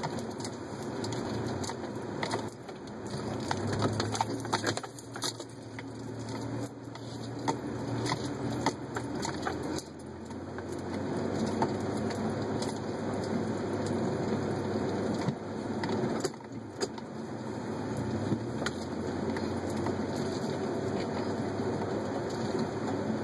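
A vehicle driving on a gravel road: a continuous crunch of tyres over stones, dotted with sharp clicks, over a low engine hum.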